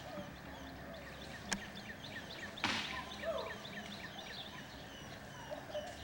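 Many birds chirping faintly, a steady scatter of short high chirps. A sharp click comes about a second and a half in, and a brief rustling burst about a second later.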